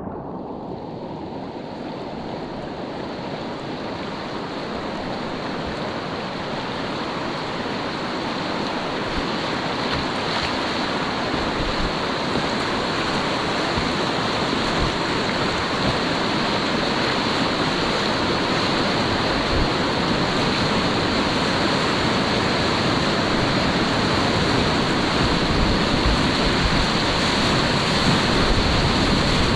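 Steady rush of river water with wind on the microphone, growing gradually louder.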